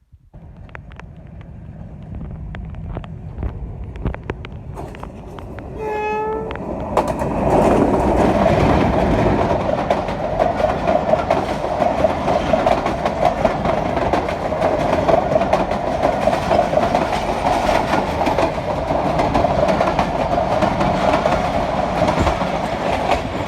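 Diesel-hauled train approaching and passing close by: a rumble that builds, a short horn blast about six seconds in, then loud steady wheel-and-rail noise with clickety-clack as the train goes by.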